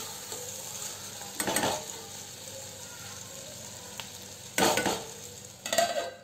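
Chopped tomatoes sizzling in hot butter and spices in a kadhai, with a metal spoon scraping and stirring through them in a couple of louder strokes. Near the end a metal lid is set on the pan to cover it.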